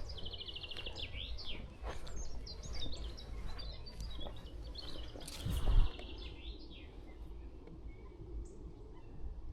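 Small songbirds singing and calling outdoors, with a fast trill at the start and many short chirps and whistles after it. A low wind rumble on the microphone runs underneath, and a single low thump about five and a half seconds in is the loudest sound.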